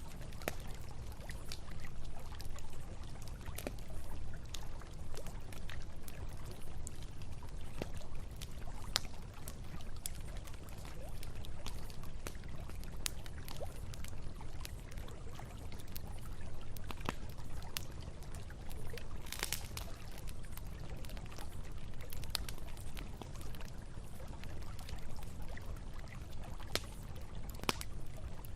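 Campfire crackling with scattered sharp pops over the steady rush of a river, with one longer sputtering crackle about two-thirds of the way through.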